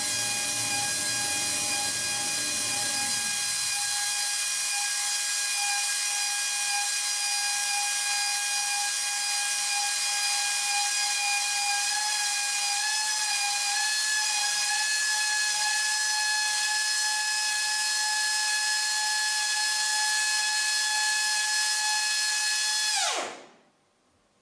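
Air motor of a pneumatic portable flange-facing machine running with a steady high whine and air hiss. A lower rumble drops away about three seconds in. Near the end the motor winds down quickly in pitch and stops.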